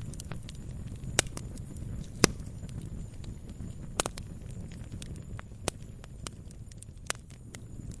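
Campfire crackling: wood popping and snapping at irregular moments over a steady low rumble of the flames, with a sharp pop about two seconds in.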